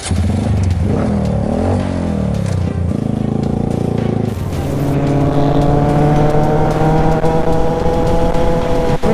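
Motorcycle engine revving up and down several times, then after a sudden change about four seconds in, a steady engine note held at high revs.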